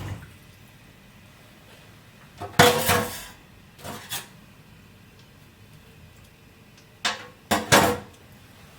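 Kitchen clatter: a utensil knocking against dishes or a pan in a few short bursts, the loudest about two and a half seconds in and another pair near the end.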